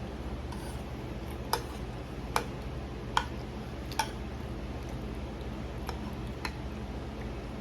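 An eating utensil clinking against a dish: four sharp clicks a little under a second apart, then two fainter ones, over a steady low hum.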